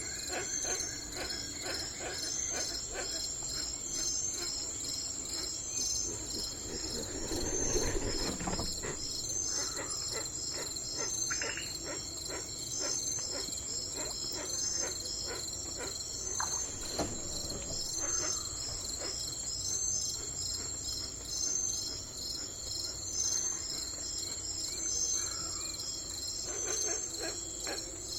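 Crickets chirping steadily in a high, evenly pulsing rhythm, with a brief lower sound about eight seconds in and a few faint short calls.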